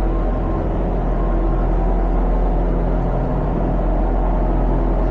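Semi truck's diesel engine idling steadily, a constant low rumble with an even hum.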